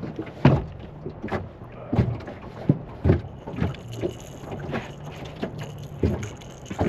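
Wind-driven waves slapping against the hull of a small fishing boat: an uneven run of thumps and splashes, about one or two a second.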